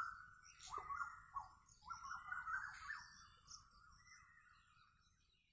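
Faint birdsong: quick chirping and warbling notes with a few short falling calls, fading away over the last couple of seconds.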